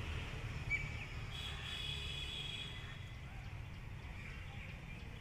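A bird calls briefly about a second and a half in, over a steady low rumble of outdoor pond-side ambience, with a short chirp just before it.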